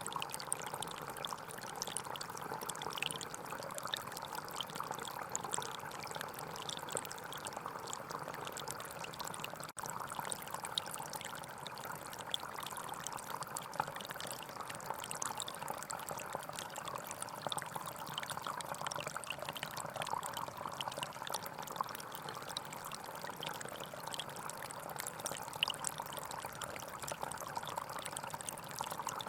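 Gentle forest stream flowing and trickling steadily over stones. There is a momentary dropout in the sound about ten seconds in.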